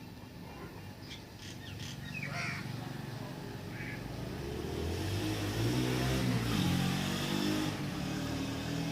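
A few short bird chirps in the first four seconds, then a motor vehicle passing. Its engine grows louder from about halfway through, and its pitch shifts up and down.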